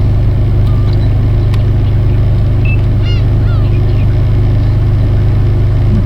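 Steady low engine drone throughout, with black-tailed gulls giving a few short calls over it, most of them around three seconds in.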